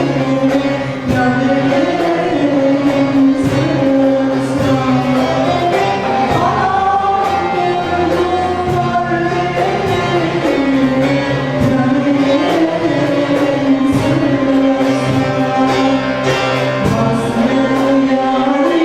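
Turkish folk music choir singing a folk song with instrumental accompaniment, the voices moving together in a gliding, ornamented melody over a steady rhythmic strumming or beat.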